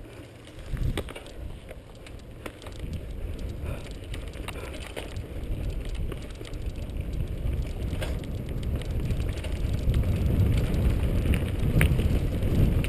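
Mountain bike rolling over a dirt and gravel trail: tyres crackling over the ground with scattered clicks and knocks from the bike, under a low rumble of wind on the microphone that grows louder as it picks up speed.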